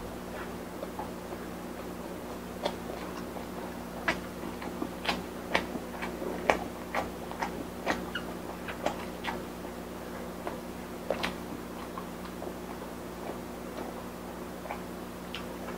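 Close-up chewing with the mouth closed: soft, irregular clicks and crunches, thickest in the middle, over a steady low hum.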